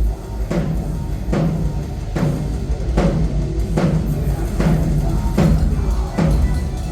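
A tom on a live drum kit struck once at a time, evenly, a little more than once a second, each hit ringing out low, for a soundcheck. A steady low rumble sits underneath.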